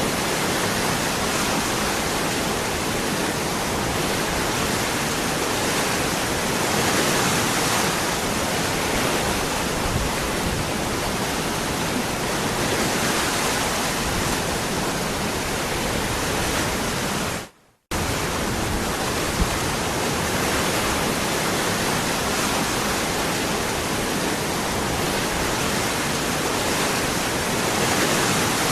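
Waterfall: a steady, even rush of falling water. About two-thirds of the way through it fades out to a moment of silence and then cuts straight back in, as at a splice in a looped recording.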